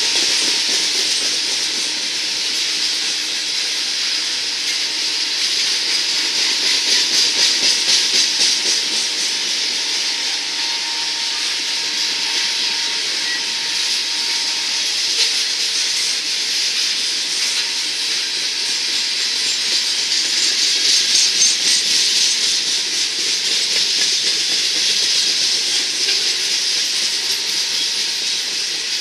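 Coal hopper cars of a freight train rolling past: a steady rushing hiss of steel wheels on rail, with faint clicking of wheels over the rail joints.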